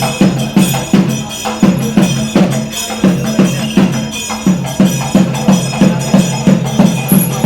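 Percussion music: a steady rhythm of drum strikes, about three a second, with metallic jingling over a steady low tone.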